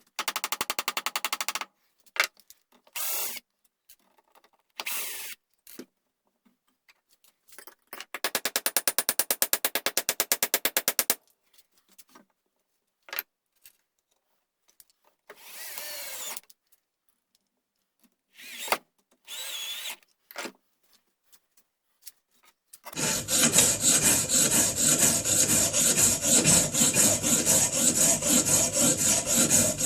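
Tools working a wooden gunstock. Several short bursts of fast, even strokes come first, then a continuous stretch of tool noise over about the last seven seconds, the loudest part.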